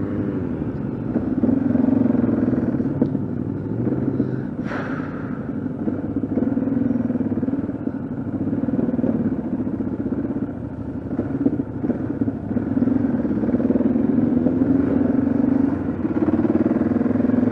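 Single-cylinder engine of a Yamaha XT660Z Ténéré motorcycle running on the road, its note rising and falling as the revs change, with wind noise underneath. A brief sharp noise comes about five seconds in.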